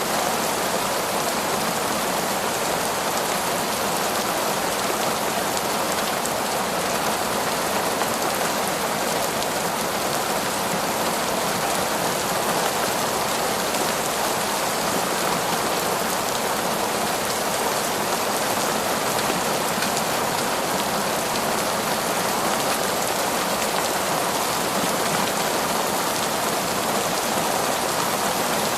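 Heavy torrential rain falling on a forest, a dense, even hiss that stays steady throughout.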